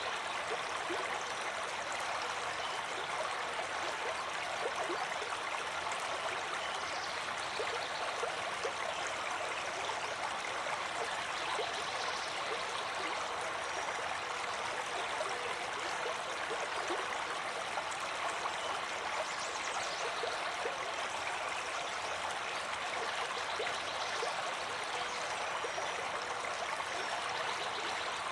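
Water of a stream flowing steadily, an even rushing sound with no change in level.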